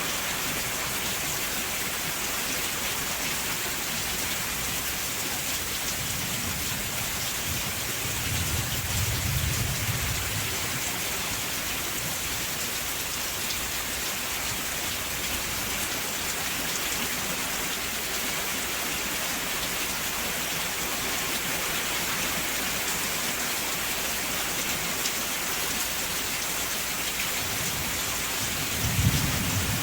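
Steady, dense rainfall pattering on surfaces. Low rumbles of thunder come in about eight to ten seconds in and again near the end.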